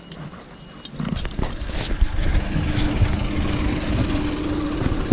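Boat motor running, jumping louder about a second in and then holding a steady hum.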